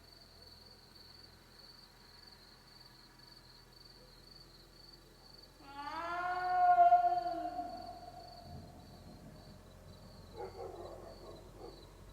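An unidentified animal gives one long, loud howling wail about halfway through, lasting about two seconds, rising and then falling in pitch. A rougher, shorter call follows near the end, over a steady, faint, high pulsing tone.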